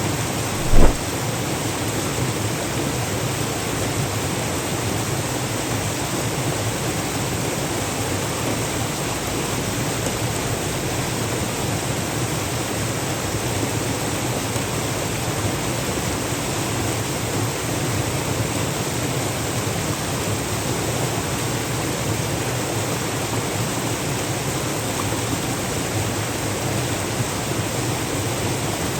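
Steady, even rushing noise, with one sharp knock about a second in.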